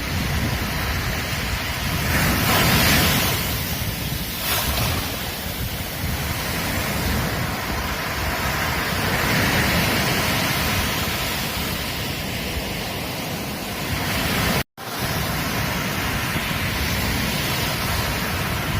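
Ocean surf breaking on a beach, a continuous wash that swells and eases as waves come in. Near the end it cuts out completely for an instant, then resumes.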